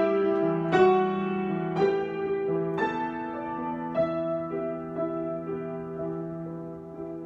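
Solo improvised keyboard music: slow, held chords struck about once a second, growing softer toward the end.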